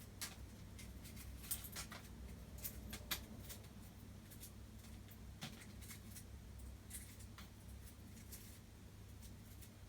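Faint, irregular scratches and small clicks of broken phone-screen glass being scraped off the display into a bin, over a steady low hum.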